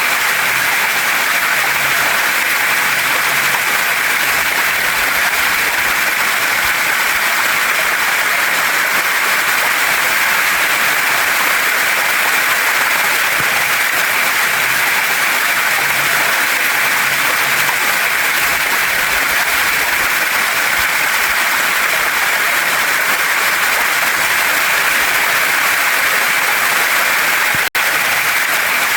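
Steady rushing hiss of a waterfall and stream, water pouring over rocks. It cuts out for an instant about a second before the end.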